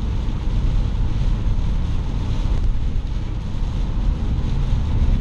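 Car driving at highway speed through heavy rain and gusting hurricane wind: a steady low rumble of road, wind and rain noise.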